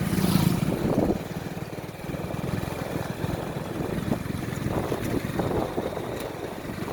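Motorcycle engine running steadily while riding, with wind rushing over the microphone. The wind is loudest in the first second.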